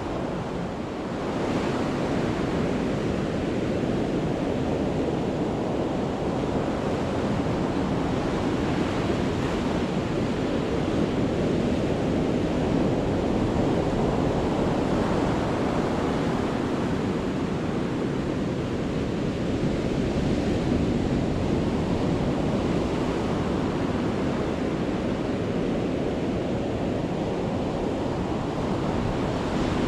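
Sea waves breaking and washing up the shore in a continuous rush of surf that swells and eases as each wave comes in.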